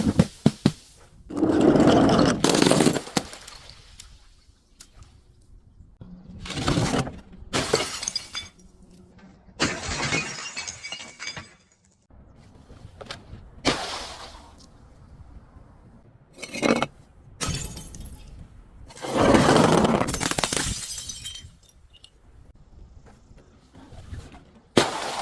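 Glass bottles being broken and crushed: a series of shattering crashes and crunches, some sharp and some drawn out over a second or two, coming every few seconds.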